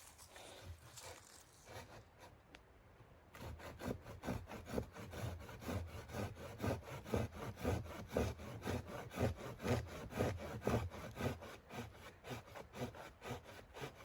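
Hand saw cutting wood in steady, rhythmic strokes, about three a second, starting a few seconds in.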